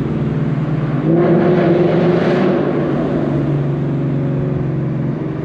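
Ford Mustang engine heard from inside the cabin, pulling hard under acceleration in fourth gear, held there with the paddle shifters of its 10-speed automatic. The engine note gets louder about a second in and stays strong for a couple of seconds before easing slightly.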